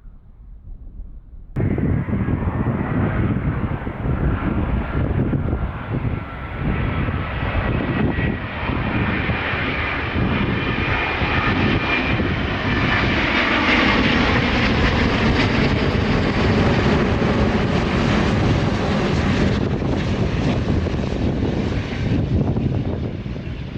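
An airliner passing by, its engines giving a loud, steady rumble with a thin whine on top, loudest about halfway through and easing off near the end. It cuts in abruptly about a second and a half in.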